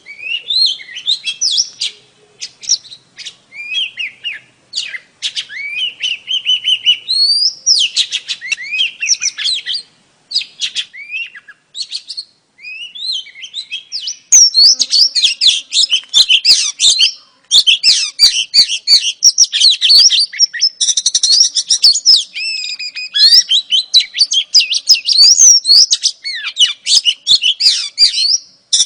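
Female oriental magpie-robin calling in quick high chirps and short warbled phrases, scattered with pauses at first, then turning into a dense, fast stream of chirps about halfway through.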